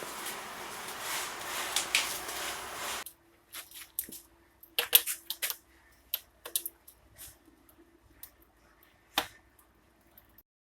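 Wood fire burning in a brick fireplace: a steady rushing hiss for about three seconds that cuts off abruptly, then scattered sharp crackles and pops from the burning wood.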